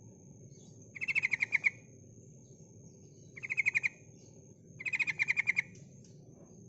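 Female yellow-vented bulbul (trucukan) giving its call: three short bursts of rapid chattering notes, each under a second long, about a second or two apart. A faint steady high whine runs behind them.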